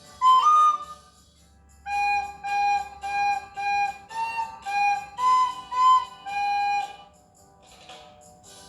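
Recorder played solo: a short phrase, a brief pause, then a run of short repeated notes, and a lull near the end.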